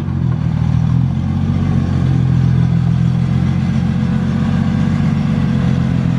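Car engine running steadily at an even, low pitch, holding constant revs.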